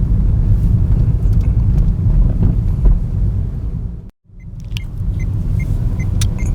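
Renault Logan cabin noise while driving: a steady low rumble of engine and tyres, cut out briefly about four seconds in. After the cut come several short light knocks and clicks, of the kind the driver puts down to worn front brake pads knocking in the front suspension.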